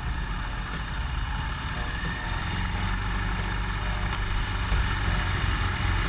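Motorcycle engine running steadily with wind and road noise, gradually growing louder.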